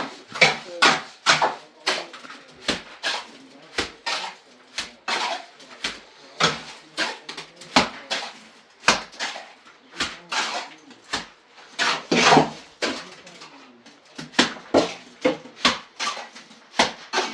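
Irregular knocking and clattering of hard objects, two or three sharp knocks a second, some louder than others.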